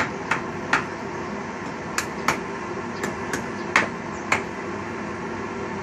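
A series of short, sharp clicks or chips, about nine at uneven spacing, over a steady low hum.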